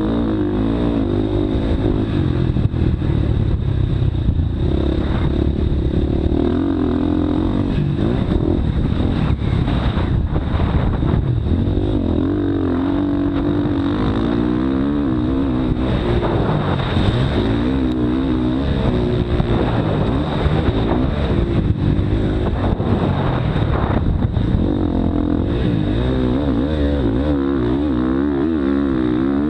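Motocross dirt bike engine under constant throttle changes, its pitch rising and falling over and over as the rider accelerates, backs off and shifts, with a heavy low rumble underneath.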